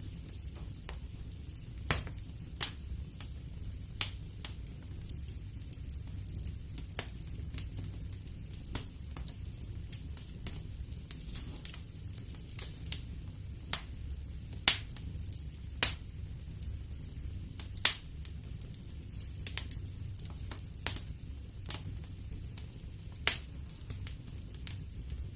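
Wood fire burning in a fireplace: a steady low rumble of flames with irregular crackles and a dozen or so sharp pops of burning logs.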